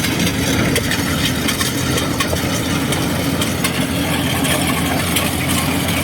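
Kubota DC70G combine harvester running steadily, with a constant engine hum and faint irregular ticking from the machinery.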